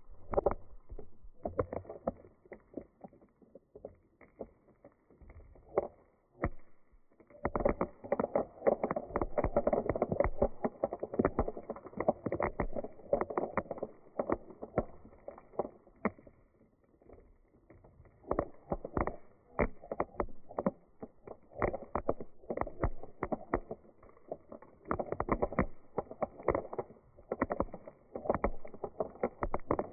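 Dried beans rolling and rattling in a container: a dense patter of small clicks that swells and dies back in surges, like waves.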